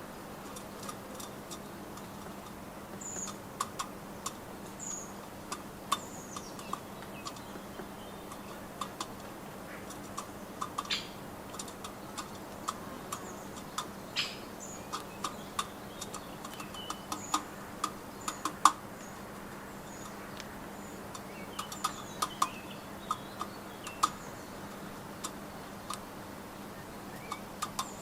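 Small garden birds at a nut feeder: irregular sharp taps and clicks, with short high-pitched chirps scattered throughout.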